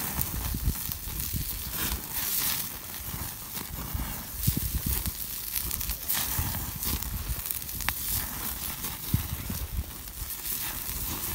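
Wood campfire crackling with scattered irregular pops, over a low uneven rumble.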